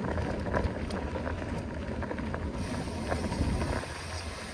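Wind buffeting the microphone: a steady low rumble with an even hiss above it, and a few faint clicks.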